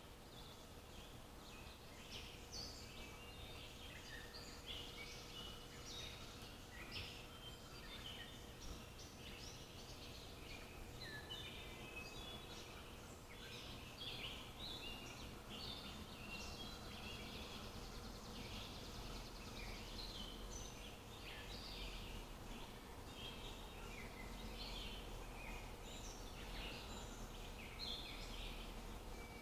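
A chorus of small birds chirping and calling over one another, several short high chirps a second without a break, over a faint steady hum.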